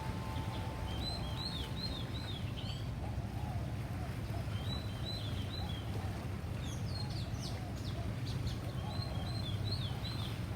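Small birds chirping in short groups of quick notes that come again every couple of seconds, over a steady low rumble.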